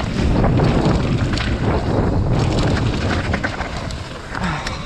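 Wind rushing over the microphone during a fast mountain-bike descent, with the bike's rattles and frequent short knocks as it runs over rough, wet trail.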